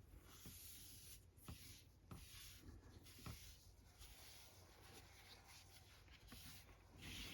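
Faint rubbing of a cotton round across a comic book's paper cover, wiping away eraser residue, with a few soft taps of handling.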